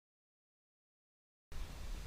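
Dead silence, then a steady low rumble with a faint hiss cuts in abruptly about a second and a half in.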